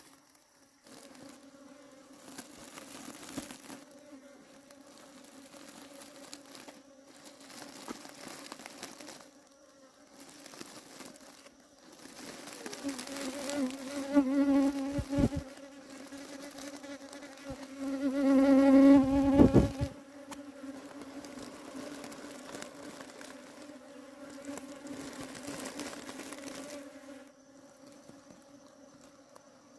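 Bees buzzing in flight, a steady hum that swells louder twice in the middle as bees pass close, then drops back near the end.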